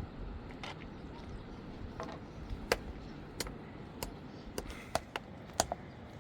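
About ten sharp knocks, irregularly spaced, some with a brief ring, over a low steady rumble: strikes of hand tools during building work.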